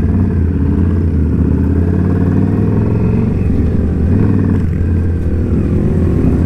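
Indian Scout Bobber's V-twin engine running steadily while riding.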